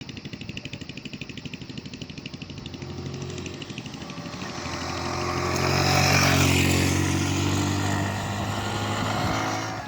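Motorcycle engine running, first with a quick even beat, then growing louder to a peak about six seconds in before easing off slightly.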